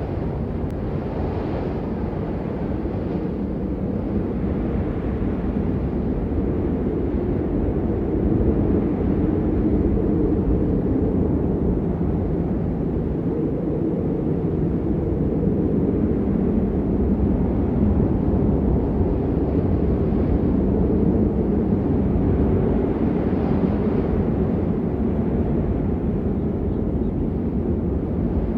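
Steady rain noise, a dull low rushing sound with little high hiss.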